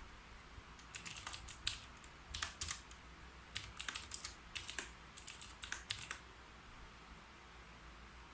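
Typing on a keyboard: quick runs of key clicks for about five seconds, stopping about two seconds before the end.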